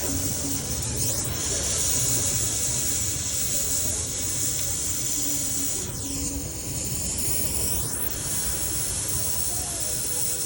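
Welding to fill a worn hole in a generator's governor rod: a loud, steady hiss that starts abruptly and holds, with a sweeping change in tone from about six to eight seconds in.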